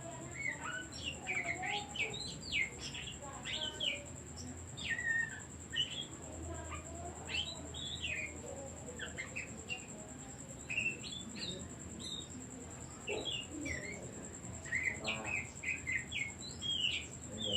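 Oriental magpie-robin (kacer) singing a varied song of short whistled notes and quick slurred, gliding phrases, with a steady high-pitched tone underneath.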